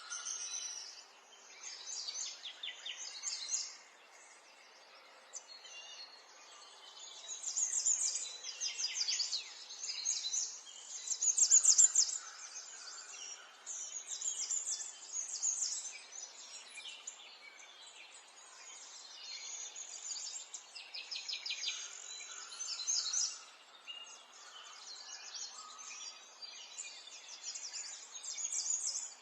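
Small songbirds chirping and twittering, with clusters of quick repeated high chirps and trills over a faint steady background hiss; the loudest burst of song comes about halfway through.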